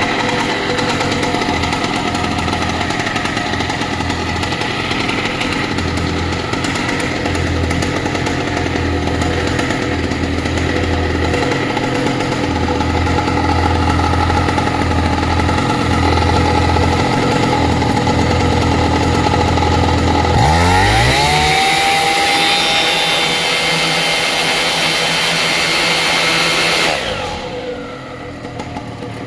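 Vittorazi Atom 80 78cc two-stroke paramotor engine with a tuned expansion-chamber exhaust, running at low throttle. About two-thirds of the way through it revs sharply up to full throttle, holds there for several seconds, then drops back to a low speed near the end.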